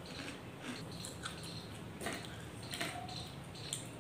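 A person chewing french fries: faint, soft mouth sounds with a few scattered quiet clicks.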